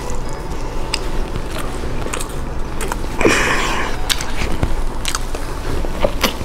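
Close-miked mouth sounds of a person chewing food, with wet smacking clicks and finger licking, and a short breathy noise about three seconds in.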